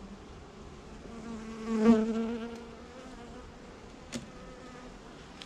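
Honeybees buzzing around an open hive during an inspection. One buzz swells loud about two seconds in and fades within a second or so. There is a short click a little after four seconds.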